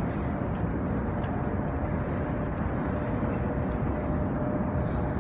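Steady, unbroken roar of Niagara Falls, a deep rushing noise of water plunging over the falls.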